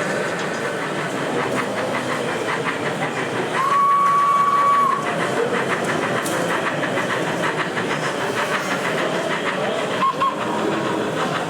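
A model locomotive's sound unit gives one long, steady whistle about four seconds in and two short toots near the end, over the running noise of a model train.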